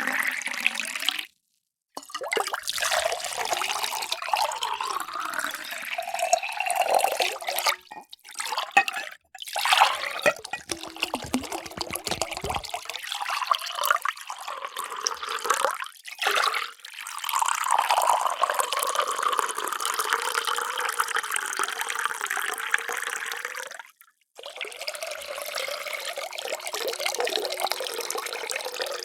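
Water poured into drinking vessels in several separate takes cut apart by brief silences; in some takes the tone of the splashing rises in pitch as the vessel fills.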